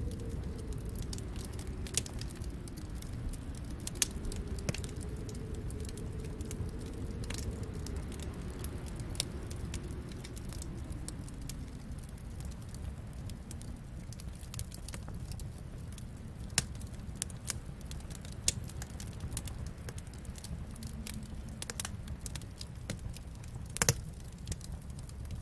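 Wood fire crackling in a fireplace: a steady low rumble with scattered sharp snaps and pops, one louder pop near the end. A faint low tone wavers up and down through the first half.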